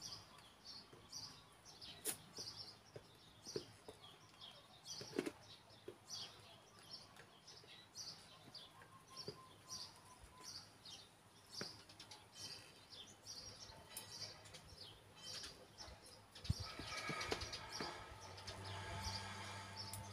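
A small bird chirping over and over, a short high call about twice a second, with a few faint knocks. Near the end a steady low electrical hum sets in.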